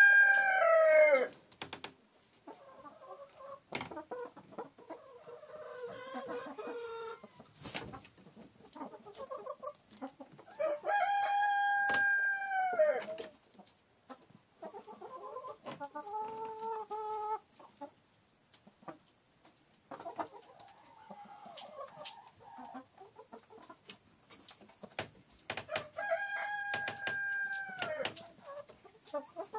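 A rooster crowing three times, each crow a drawn-out call that drops in pitch at the end. Hens cluck and chatter softly between the crows.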